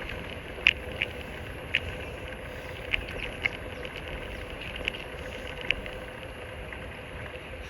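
Steady rushing noise of a bicycle being ridden, with about seven short, sharp clicks scattered irregularly through it.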